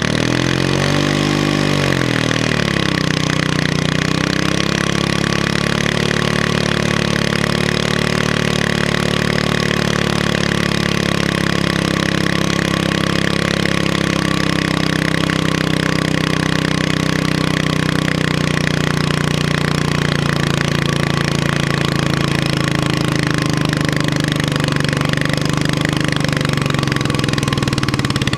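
Pulling tractor's engine running hard at full throttle, dragging the sledge. Its pitch swings up and down in the first couple of seconds at the launch, then holds steady and loud at high revs for the rest of the run.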